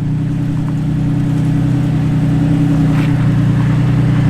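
Off-road truck's engine running steadily at low revs under load as it crawls up a rocky hill.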